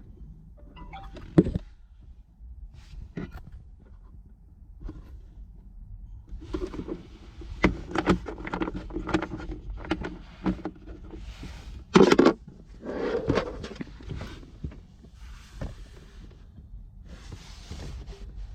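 Plastic car-interior parts being handled: scattered clicks, rustling and clattering, with two loud knocks, about a second and a half in and about twelve seconds in, as a glove box and the cabin air filter cover are worked loose.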